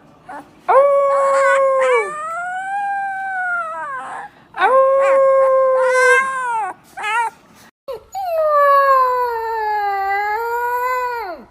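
Puppy crying with long, high-pitched whining howls, four or five in a row with short gaps between them. The last and longest cry lasts about three seconds, sags in pitch and then drops off.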